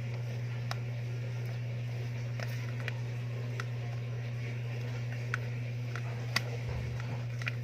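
A steady low hum with scattered faint clicks and light squishing from sticky homemade slime being worked.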